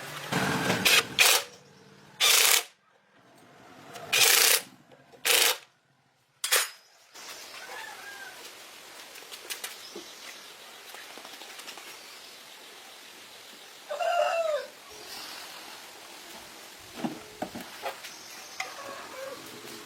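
Several short, loud bursts of noise with silent gaps between them in the first seven seconds, then a quieter background in which a rooster crows once, about two-thirds of the way through.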